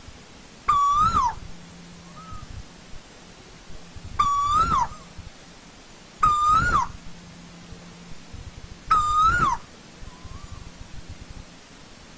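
Asian koel (tu hú) calling: four loud, single hooting notes, each a little over half a second long, that rise slightly and drop off at the end, spaced about two to three seconds apart. Fainter koel calls sound between them.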